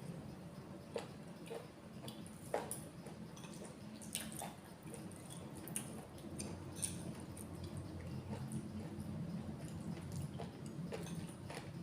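A person eating close to the microphone: scattered wet mouth clicks and squishy chewing sounds at an uneven pace, over a steady low hum.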